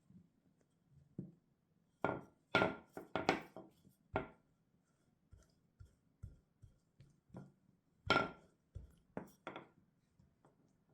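Kitchen utensils knocking and clattering on a work surface: sharp knocks, some with a short ring, in a cluster about two seconds in and again about eight seconds in.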